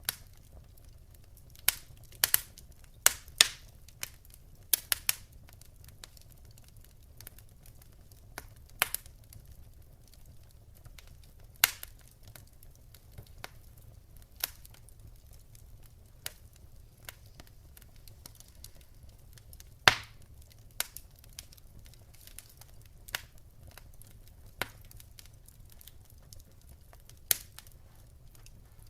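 Wood fire crackling: irregular sharp pops and snaps, a cluster of louder ones in the first few seconds and another loud pop about two-thirds of the way in, over a faint low rumble.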